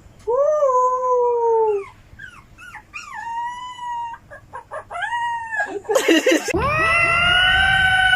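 Dog howling: one long, slightly falling howl, then several shorter rising-and-falling cries. About six seconds in there is a short noisy burst, and then a long, steady wail begins.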